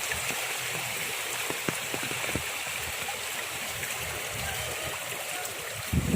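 Floodwater rushing in a steady stream where it is cutting through a road that is almost washed out. Near the end a louder low rumble sets in.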